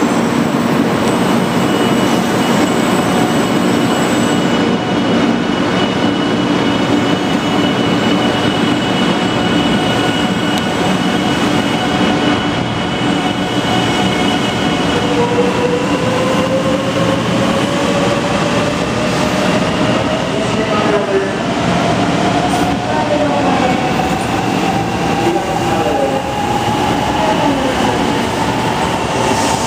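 JR 500 Series Shinkansen pulling out of the station: a loud, steady running noise with a held electrical hum at first, then from about halfway a motor whine rising in pitch as the train gathers speed past the platform.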